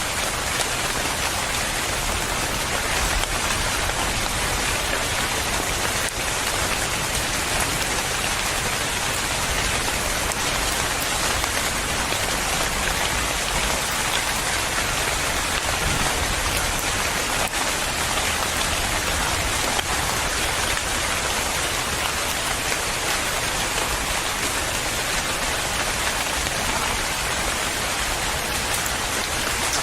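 Steady rain falling on a surface, a dense even patter with no pauses.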